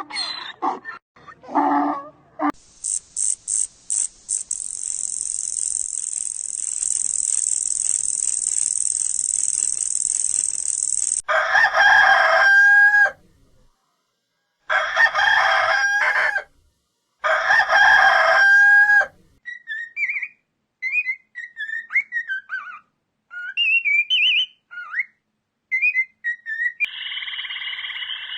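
A string of animal calls: after a long, steady high-pitched hiss, a rooster crows three times, each crow about a second and a half long; then come short scattered bird chirps, and near the end a frog starts croaking.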